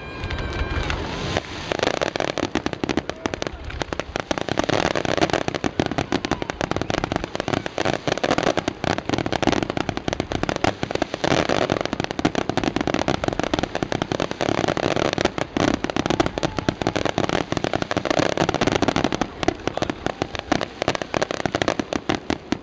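Fireworks display: a dense, continuous stream of rapid crackling and popping from aerial shells bursting overhead.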